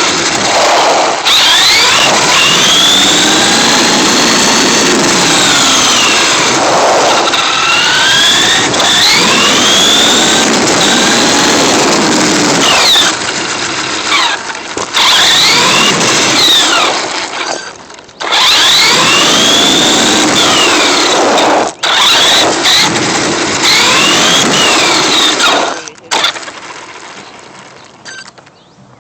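Electric motor and drivetrain of a Redcat Sandstorm RC truck on a fresh battery charge, whining up and down in pitch over and over as it accelerates and slows. The whine cuts out briefly twice and fades away near the end.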